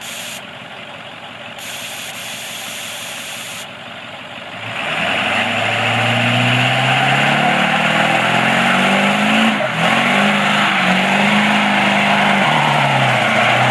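Diesel truck engine doing a burnout. For the first few seconds it runs at a lower level with short bursts of hiss. About five seconds in it revs up and holds high revs under load, with a loud rushing noise of the spinning tyres over it, and it dips briefly near ten seconds.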